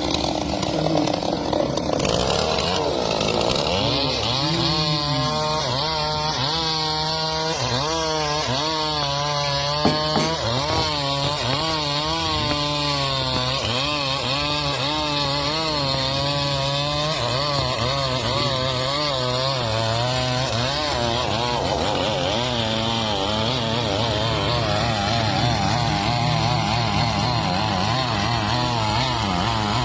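Chainsaw running at high revs while cutting through wood. The engine pitch wavers up and down over and over as the chain loads and unloads in the cut, with a brief louder knock about ten seconds in.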